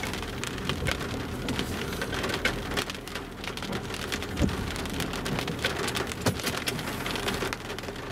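The first large raindrops of a thunderstorm strike the car's windshield and roof in irregular separate ticks, heard from inside the car, over a steady low rumble.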